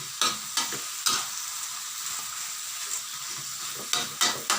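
Vegetables and hang le curry paste sizzling in a hot pan as they are stir-fried. A spatula scrapes and knocks against the pan in quick strokes, about three in the first second and three more near the end.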